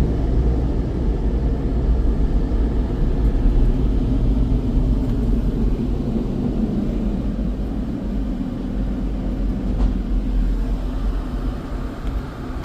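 Low, steady rumble of a car driving slowly.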